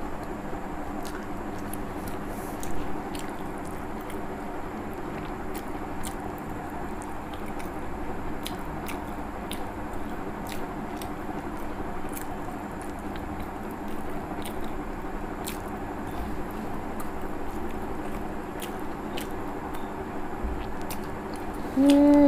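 Close-up mouth sounds of someone chewing a soft poached egg, with small wet clicks and smacks now and then, over a steady low hum. A voice begins right at the end.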